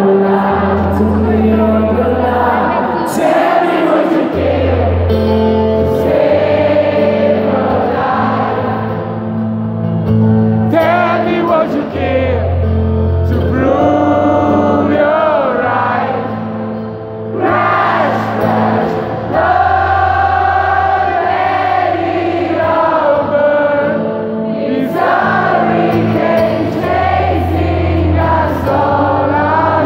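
Live acoustic rock performance: singing, with what sounds like many voices together, over low chords held for a couple of seconds at a time.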